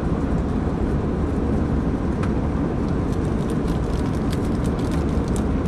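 Airliner cabin noise in flight: a steady, dense rumble of engines and airflow, strongest in the low range. Faint, irregular high ticks are scattered over it in the second half.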